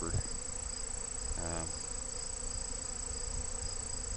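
Swarm of robber honey bees buzzing around a hive they are robbing, a steady hum of many bees in flight.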